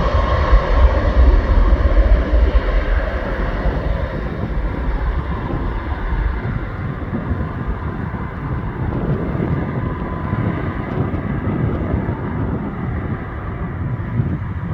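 Airliner engines rumbling as the aircraft moves away, the noise slowly fading and losing its deep rumble after about six seconds. Wind buffets the microphone.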